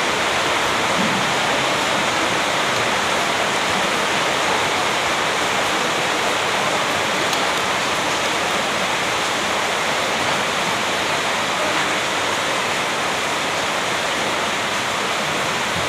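A steady rushing hiss, loud and even, with no rhythm or distinct events.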